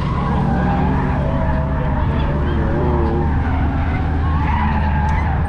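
Drift car engine running hard under a steady low drone, with tyres squealing in wavering pitches as the car slides.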